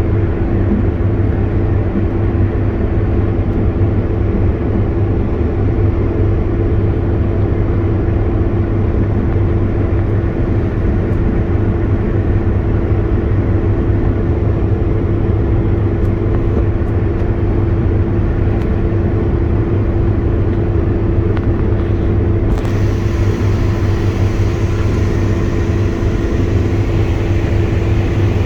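Combine harvester running steadily at harvest load, heard from inside its cab: a constant loud engine drone with a steady hum. More hiss joins the sound about three-quarters of the way through.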